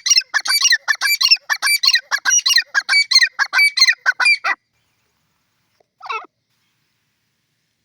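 Grey francolin calling: a fast run of loud, closely repeated notes that stops about four and a half seconds in, followed by one short call about a second and a half later.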